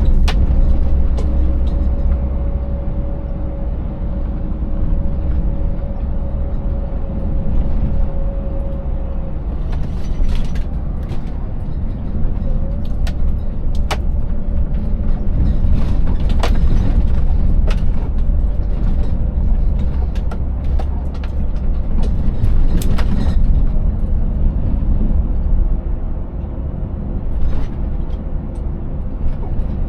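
Scania 590S truck's 16-litre V8 engine running under way, a heavy low rumble with a faint steady whine above it. Scattered knocks and rattles come through as the empty truck rides over a rough, broken road surface, thickest in the middle stretch.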